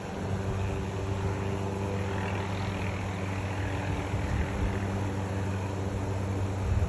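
Helicopter running steadily overhead while it works an aerial tree-trimming saw, its engine and rotor giving a constant hum over a broad rushing noise.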